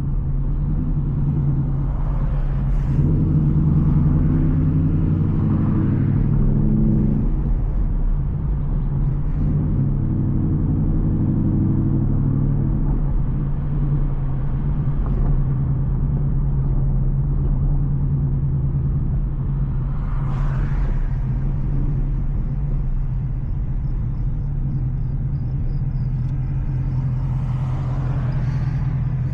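The 5.0 V8 of a straight-piped Ford Mustang GT, a steady low exhaust drone while driving. It swells and fills out twice in the first half as it pulls harder, then settles back to an even cruise. Two brief whooshes come later on.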